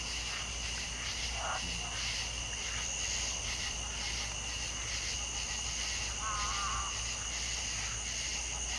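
A chorus of crickets and other insects trilling steadily in two high, pulsing tones. Two brief animal calls stand out, one about a second and a half in and a short wavering one about two-thirds of the way through.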